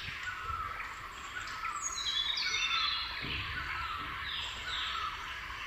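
Birds chirping in the background, many short notes that slide downward, overlapping one another.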